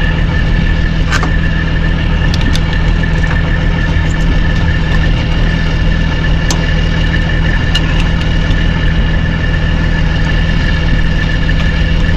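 Semi-truck diesel engine idling steadily, with a few light clicks over it.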